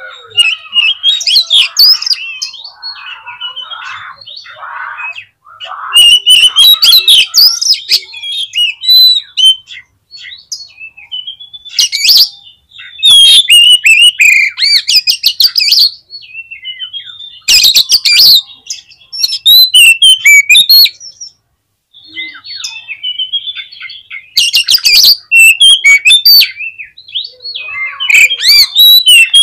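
Oriental magpie-robin singing: loud, rapid phrases of varied whistles and harsh chirps, delivered in bursts of a second or two with short pauses between them.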